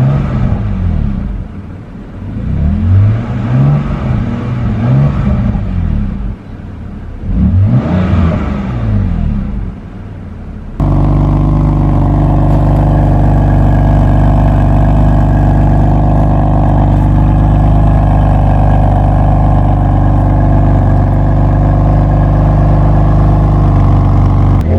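2019 BMW M4 CS twin-turbo straight-six through an Akrapovic exhaust, revved in a series of blips that rise and fall, then about eleven seconds in switching abruptly to a loud, steady engine note held at one speed.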